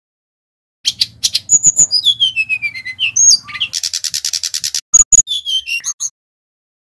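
Sikatan rimba dada coklat (jungle flycatcher) singing a varied song of sharp chirps, a long falling whistle and a rapid trill. It starts about a second in and stops near the end.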